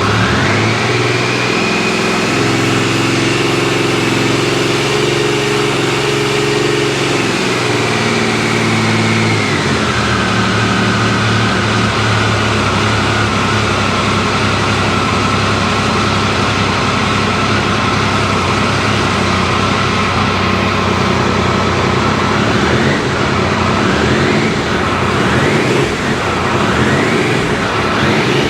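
Triumph Thunderbird 900's three-cylinder engine running just after starting: a fast idle that drops to a lower, steady idle about ten seconds in, then several quick blips of the throttle near the end.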